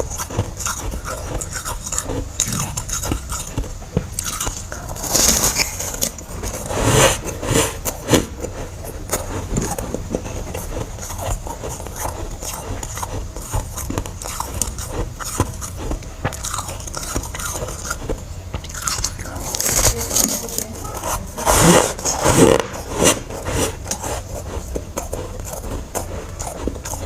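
Biting into and chewing chunks of freezer frost close to the microphone. Louder clusters of crisp crunches come about five to eight seconds in and again around twenty to twenty-three seconds in, with quieter chewing in between.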